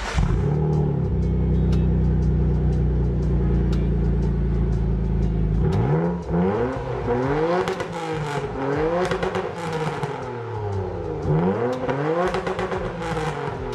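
Mitsubishi Galant's turbocharged DOHC engine running at a steady pitch, then from about six seconds in revved up and down several times. It has no blow-off valve fitted and is revved without a warm-up.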